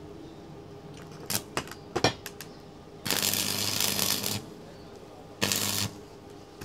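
Electric arc welding on a motorcycle exhaust pipe: a few sharp taps, then two bursts of arc crackle with a steady electrical hum, one lasting over a second about three seconds in and a shorter one about two seconds later.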